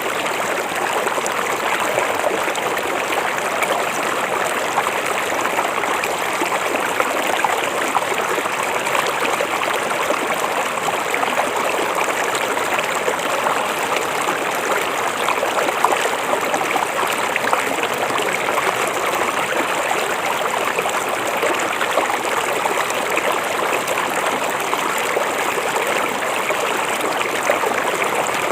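A river or stream flowing steadily, water babbling and trickling over rocks.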